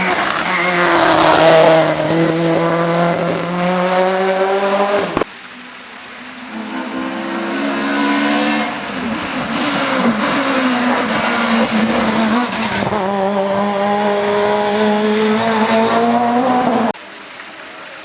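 Racing car engines at high revs under hard acceleration, the pitch climbing through each gear with short dips at the shifts. The sound cuts off abruptly twice as one car's run gives way to another.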